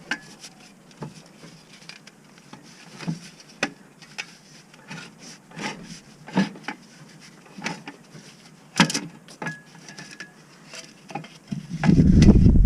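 Scattered light clicks, knocks and metallic clinks of tools and parts being handled, with a sharper knock about nine seconds in. About a second before the end a loud, steady low rumble cuts in.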